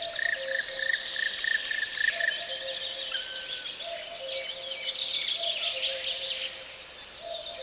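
Many birds singing at once, a dense layer of chirps and trills, over soft background music with two slowly alternating held low notes.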